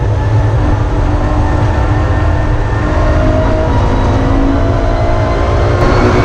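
BMW E46 M3's S54 straight-six running hard under load at track speed, heard from inside the stripped race cabin with tyre and road noise under it. The engine note holds fairly steady and shifts slightly near the end.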